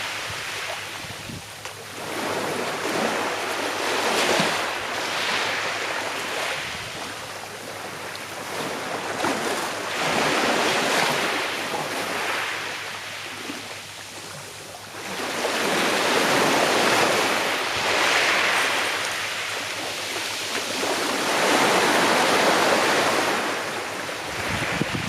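Small sea waves washing onto a shore in a slow rhythm, each swelling and breaking, then drawing back over a few seconds. A light wind hiss runs under them.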